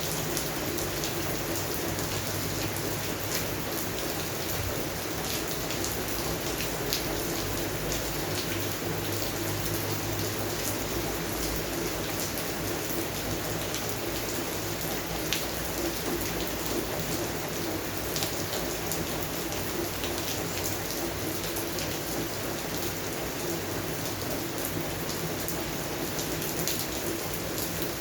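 Steady rain falling on a garden's plants and surfaces, with a dense patter of individual drops.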